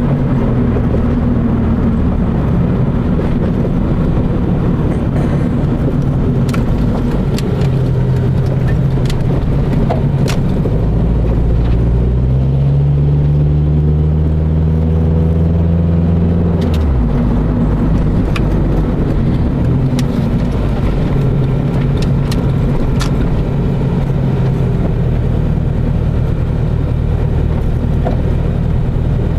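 Car engine and road noise heard from inside a moving car. About twelve seconds in, the engine note climbs as the car accelerates, then drops suddenly about five seconds later before settling back to a steady cruise.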